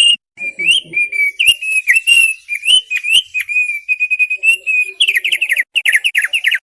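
Opior paruh tebal (thick-billed heleia) singing: a loud, continuous warbling of quick, pitch-bending whistled notes, breaking into a fast run of downward-sweeping notes near the end that stops abruptly.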